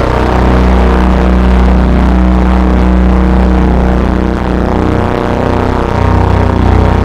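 Drone music: loud sustained low tones held under a dense, noisy texture, with no beat.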